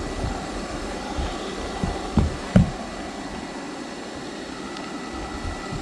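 Roomba robot vacuum running, the steady whir of its motors and brushes heard from on top of it, with a few short low thumps about two seconds in.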